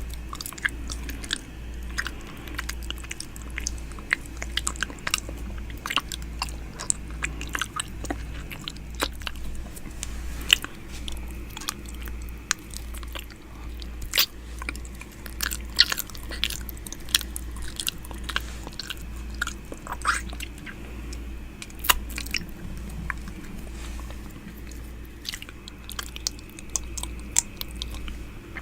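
Close-up wet mouth sounds made right at the microphone for ASMR 'ear eating': irregular clicks, smacks and licks over a low, steady hum.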